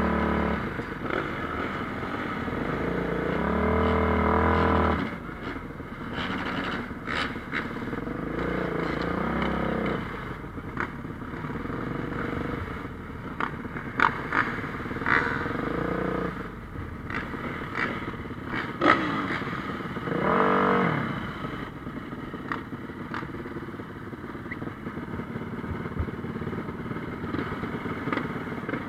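Motocross bikes racing on a dirt track, their engines revving up and dropping back as riders pass. The loudest passes come about four seconds in and again about twenty seconds in, with a few sharp clacks in between.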